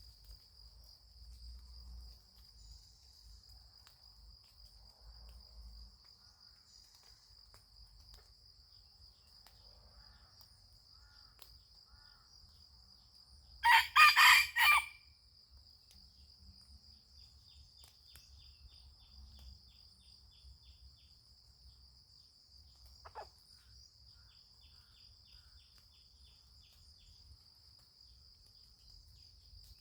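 A rooster crows once, loudly, about halfway through, a single crow of a little over a second. A steady high-pitched insect drone runs under it, with faint insect trills afterwards.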